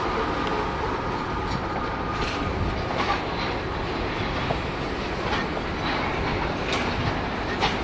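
Freight train cars rolling past, a steady rumble of steel wheels on rail with a few sharp clicks now and then.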